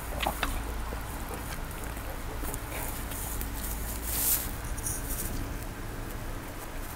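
Close-miked chewing and mouth sounds of someone eating, with a few light clicks near the start and a brief hissing rustle about four seconds in, over a steady low hum.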